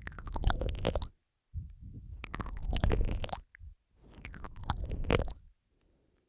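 Close-miked ASMR mouth sounds: wet smacking, clicking and squelching in three bursts, each with a deep rumble on the microphone. The last burst fades about five and a half seconds in.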